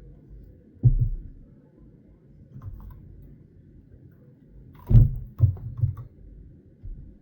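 A few dull knocks: one about a second in, then a quick cluster of three or four around five to six seconds in.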